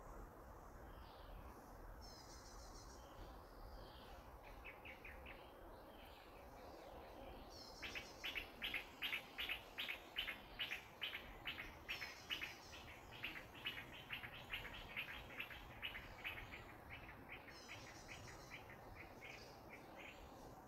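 Bird calling in a rapid series of short, repeated notes, about four a second. The series starts softly, is loudest through the middle and fades near the end, with a few brief higher trills now and then over a faint outdoor background.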